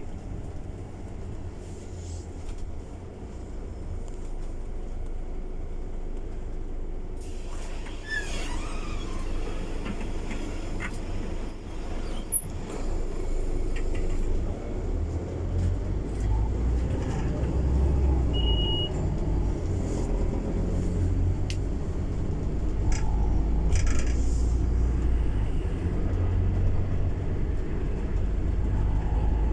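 Scania city bus running with a low, steady engine rumble that grows louder over the stretch, with a short high beep about two-thirds of the way through.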